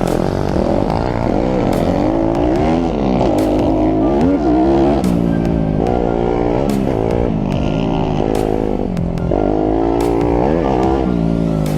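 YCF SP3 pit bike's single-cylinder four-stroke engine revving up and easing off again and again while it is ridden, with a few sharp clicks mixed in.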